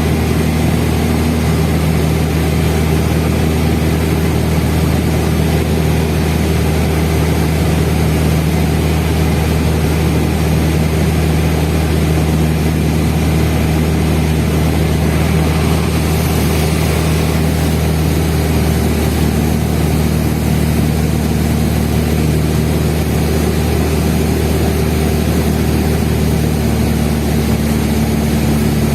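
Cessna 172N's four-cylinder Lycoming engine and propeller droning steadily in flight. The tone shifts slightly about two-thirds of the way through.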